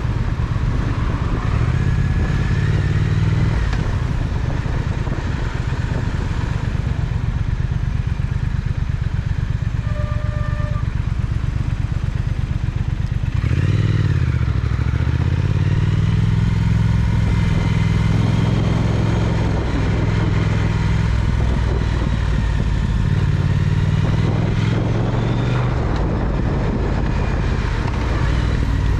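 Triumph Speed Twin parallel-twin motorcycle running under way, heard from the rider's seat. Its engine note dips and climbs again about fourteen seconds in, and a short beep sounds about ten seconds in.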